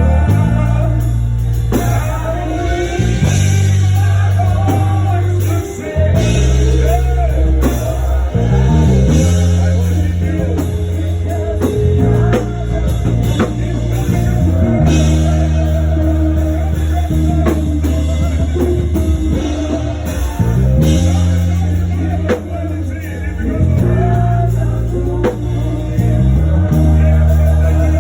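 Live church worship music: a band with drums, guitar and heavy held bass notes that change every second or two, with voices singing over it.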